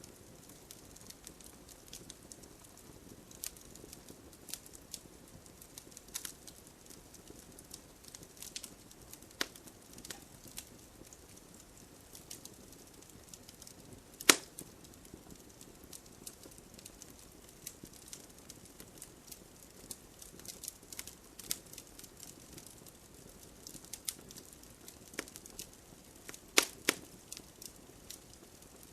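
Wood campfire crackling: irregular sharp pops and snaps over a low steady hiss, with one loud pop about halfway through and a quick cluster of loud pops near the end.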